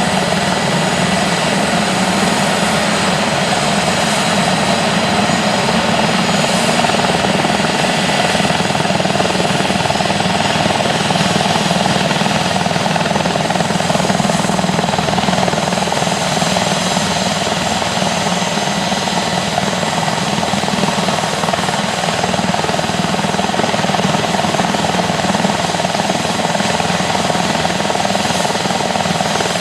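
Airbus H145 helicopter's twin turbine engines and rotor running steadily, a constant rotor sound with a steady high turbine whine on top and no change in power.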